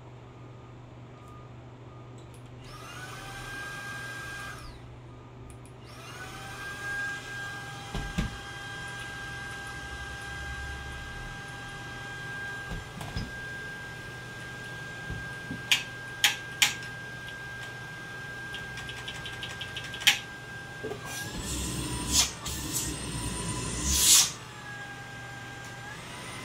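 Xiaomi cordless stick vacuum's motor whining. It spins up a few seconds in, cuts out briefly, then starts again and runs steadily, with its pitch shifting near the end. Several sharp clicks come over it in the second half.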